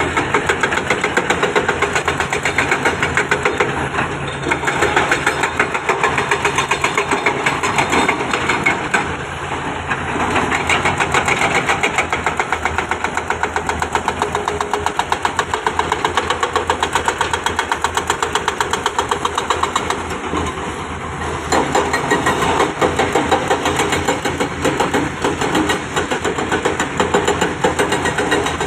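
Diesel engine of heavy construction machinery running steadily with a fast, even knocking pulse, easing off briefly a few times.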